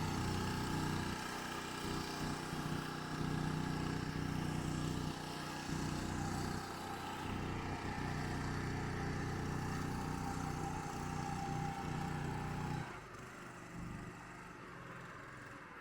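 Engine running with a steady low drone, which drops away suddenly about thirteen seconds in.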